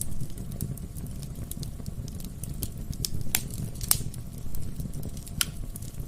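Wood fire burning in a fireplace, crackling steadily over a low rumble of flame, with scattered sharp pops from the logs; the loudest pops come about three and a half to five and a half seconds in.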